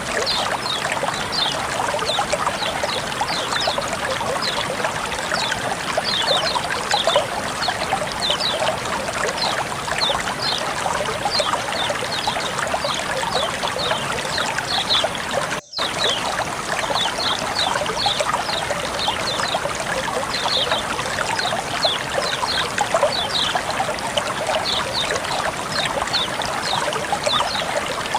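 Flowing water trickling and burbling steadily, with many small high plinks. The sound breaks off for an instant about halfway through.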